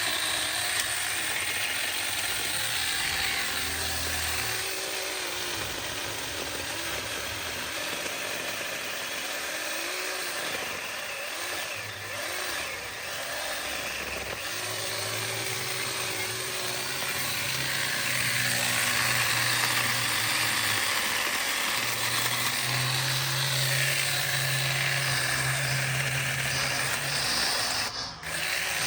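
Chainsaw running through brush-clearing work, its engine note rising and falling, with a brief break near the end.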